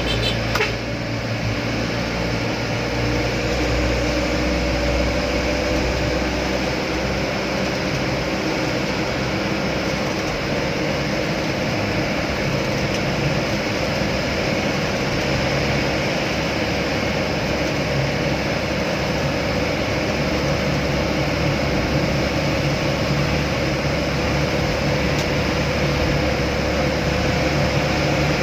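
Loaded truck's engine running steadily on the road, a continuous drone whose pitch drifts slowly, with one short click about half a second in.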